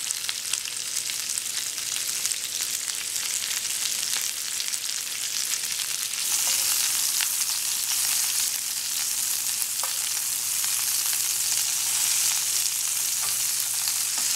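Mahi mahi and vegetable skewers sizzling in a hot cast iron grill pan, the sizzle growing louder about six seconds in as the skewers are turned over with metal tongs.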